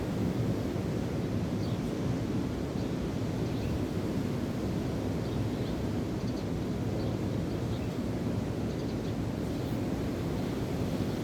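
Steady rush of wind and breaking waves, heaviest in the low end, with faint, scattered high bird chirps over it.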